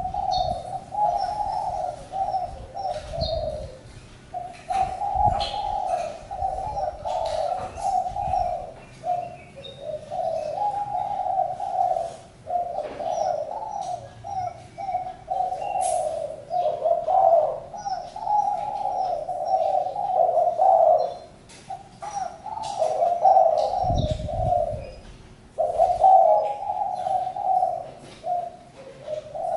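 Spotted doves cooing, phrase after phrase with only short pauses between them, with faint chirps of small birds above.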